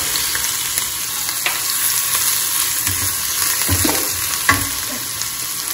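Cashew pieces, coarsely crushed green chilli and fennel seeds sizzling steadily in a tablespoon of hot oil in a pan, stirred with a spoon that knocks against the pan a few times.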